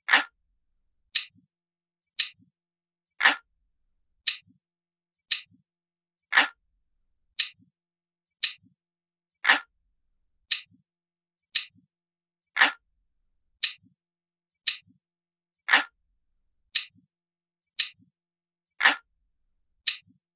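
Crisp, glass-like clock ticking sound effect, about one tick a second, with every third tick heavier and fuller than the two lighter ones between.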